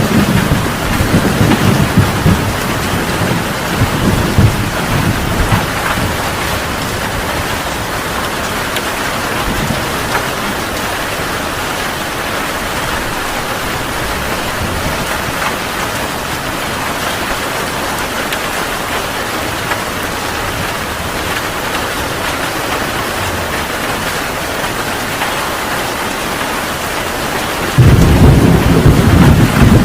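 Heavy rain pouring steadily with thunder. A rumble dies away over the first few seconds, and a new roll of thunder breaks in suddenly near the end.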